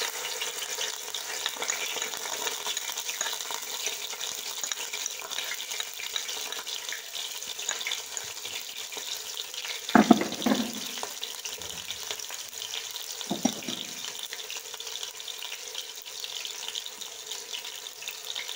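Fresh ginger-garlic paste frying in hot cooking oil in a non-stick pot: a steady sizzling hiss with fine crackle. Twice, around the middle, there is a brief louder sound.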